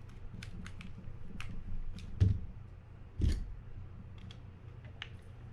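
Small screwdriver and metal reel parts clicking and tapping as the side cover screws of a spinning reel are driven in, with two louder knocks about two and three seconds in.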